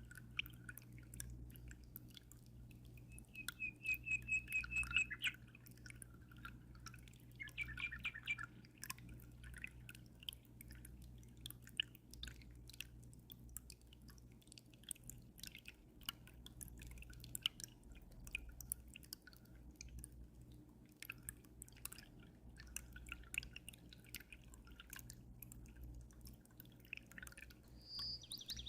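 Water dripping and trickling into an aquarium in quick, irregular drops over a low steady hum, with birds chirping now and then, including a rapid trill about four seconds in and another call near the end.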